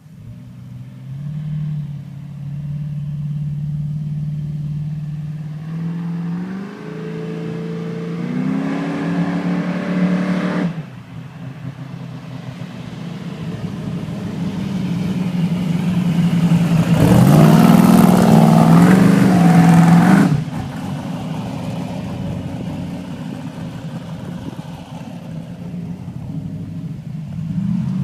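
A Chevy Nova drag car's 377-cubic-inch small-block V8 (a destroked 400 with a solid-roller cam) accelerating, its pitch climbing in steps before it cuts off abruptly. It then builds again to a much louder full-throttle pull that also cuts off suddenly, and drops back to a lower, lumpy run.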